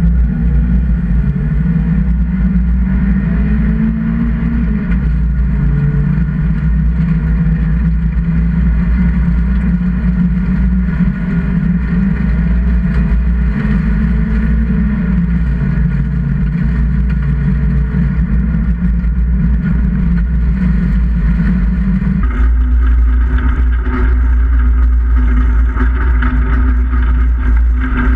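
Engine of a 1600 cc-class folk-race car heard inside the cabin while it laps an ice track, its pitch rising and falling with the throttle. About three-quarters of the way through it switches abruptly to a second car's engine, which sounds brighter.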